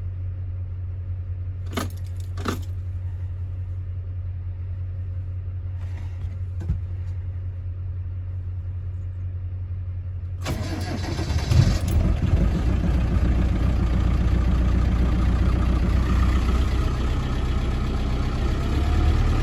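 Land Rover Defender 300Tdi 2.5-litre four-cylinder turbo diesel started from cold at about −15 °C. A steady low hum with a few clicks while the glow plugs are cycled twice, then about ten seconds in the engine cranks briefly, fires and settles into a steady idle, starting without trouble.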